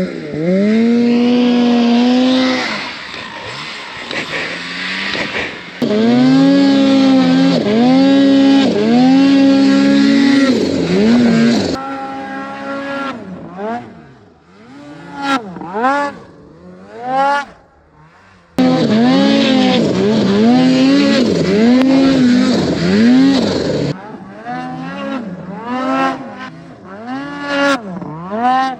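Snowmobile engine revving hard. Long high-rev pulls alternate with quick repeated throttle blips, the pitch climbing and dropping with each one.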